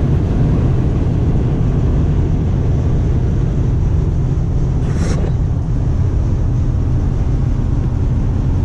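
Steady road and engine noise inside the cab of a diesel pickup truck on the move, with a brief tick about five seconds in.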